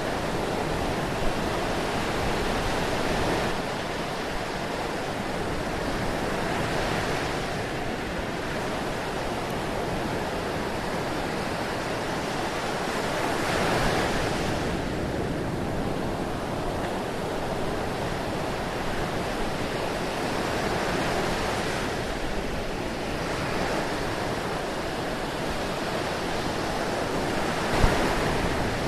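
Ocean surf: a continuous wash of waves that swells louder every several seconds as waves break and run up, with a short sharp click near the end.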